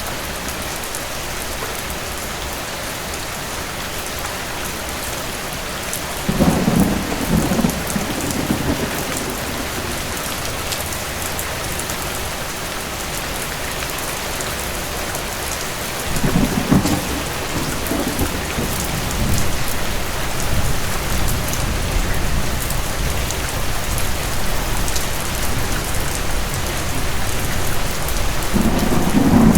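Steady rain falling, with thunder rumbling in three times: about six seconds in, about sixteen seconds in, and again right at the end.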